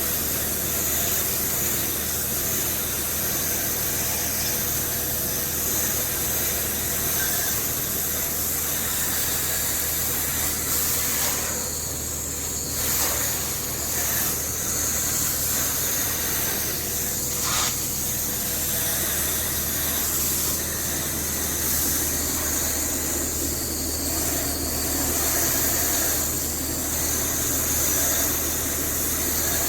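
Garden hose spraying water onto an outdoor air-conditioner condenser's coils, a steady hissing spray that dips briefly a couple of times, with a steady low hum underneath.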